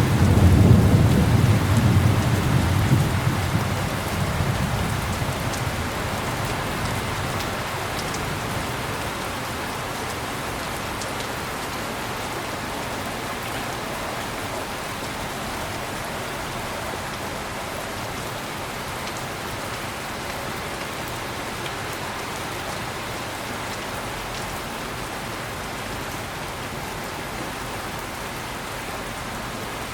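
Heavy rain falling steadily, with a roll of thunder at the start that fades away over the first few seconds.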